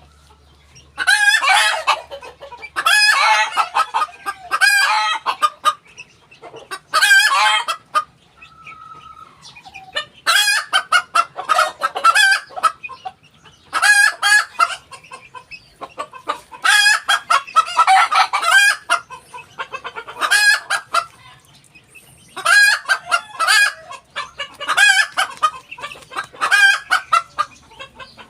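Ko Shamo hen calling in repeated loud bouts of rapid, harsh clucking notes, each bout a second or two long with short pauses between.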